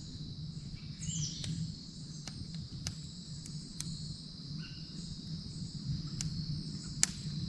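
A steady, high-pitched chorus of insects, with a few sharp clicks or pops scattered through it and a short bird chirp about a second in.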